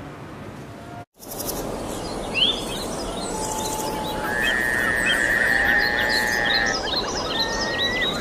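Birds chirping and calling, many short rising chirps with one long, even trill partway through, over a steady background hiss. The sound cuts out briefly about a second in before the birds begin.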